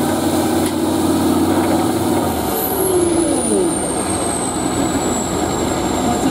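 A competition truck's diesel engine working hard, holding a steady note and then changing pitch about two and a half seconds in, with a high whistle that rises and then slowly falls away.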